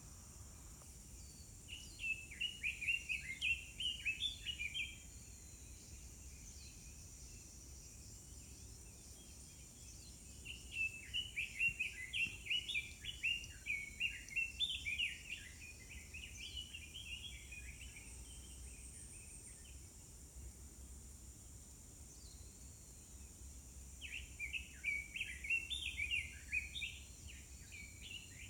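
A songbird singing three bouts of rapid, tumbling chirps, each a few seconds long, with pauses of several seconds between them, over a steady high hiss.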